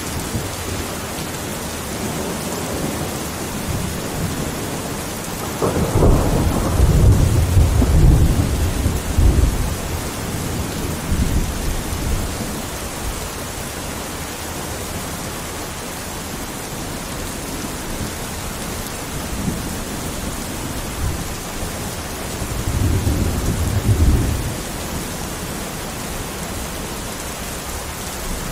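Steady rain hissing, with two long, deep rumbles rolling through it, the louder one starting about six seconds in and another about twenty-two seconds in.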